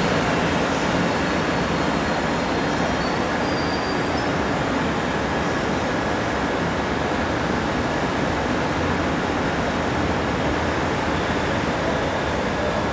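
Steady rumble and hiss of electric commuter trains at a station platform: a Shinbundang Line train rolling slowly in beside a Bundang Line train, with a faint high whine above the noise.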